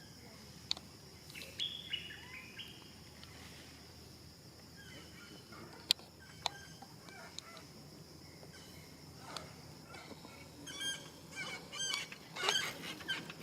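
Short, high-pitched animal calls, a few early on and a quick run of them near the end, over a steady high hum, with scattered sharp clicks.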